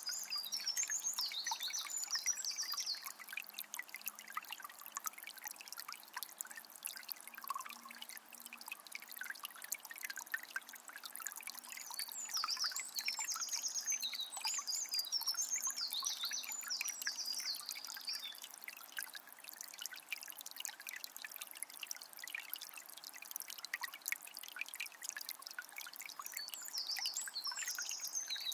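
Shallow forest river trickling and splashing steadily over stones. Songbirds sing in short bright phrases near the start, around the middle and again near the end.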